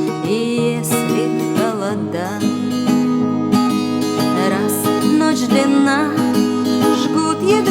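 Acoustic guitar strumming chords as song accompaniment.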